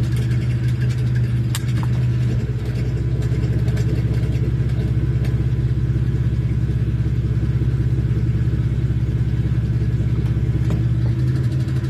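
Car engine running with a steady low drone and a fast, even pulsing; the sound shifts about two seconds in and again near the end. The owner considers it a bad, abnormal noise.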